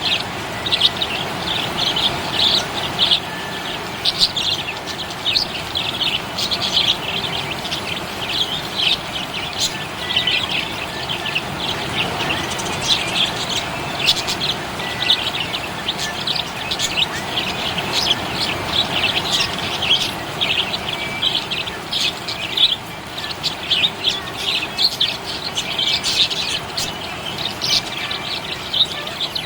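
Budgerigars (budgies) chirping and chattering continuously in quick, busy runs of short high chirps, over a steady background hiss.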